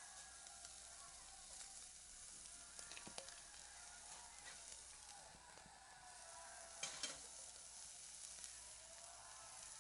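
Food sizzling as it fries over a wood fire, a steady faint hiss with a few sharp pops about 3 and 7 seconds in.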